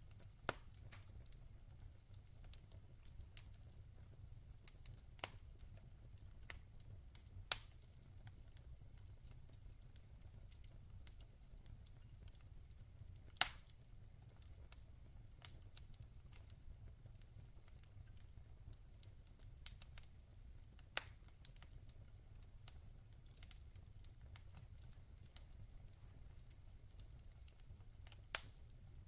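Log fire crackling: scattered sharp pops and snaps of differing strength over a faint low rumble, the loudest pop about halfway through.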